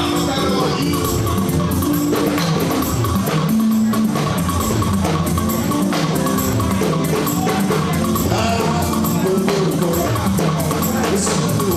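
Live band music: a drum kit keeps a steady beat under sustained melodic notes from keyboard and guitar.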